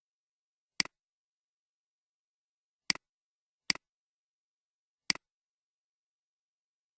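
Computer mouse button clicking four times, each a quick press-and-release click, with the second and third about three-quarters of a second apart.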